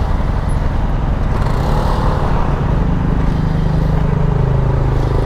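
Honda Africa Twin's parallel-twin engine running steadily at a crawl, with other vehicle engines close by.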